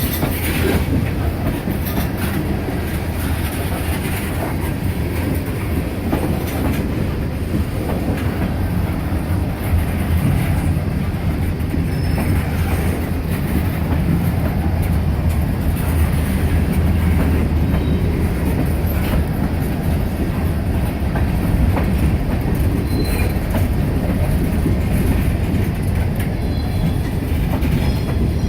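Freight cars of a slow CSX manifest train rolling past, a steady rumble with wheels clicking over rail joints and a few brief, faint wheel squeals.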